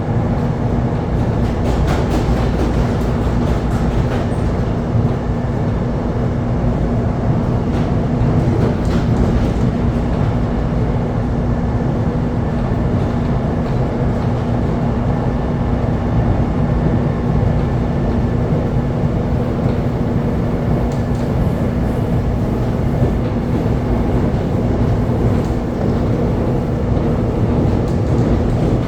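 Electric commuter train running along the track, heard from inside the carriage: a steady rumble of wheels on rail with a constant low hum.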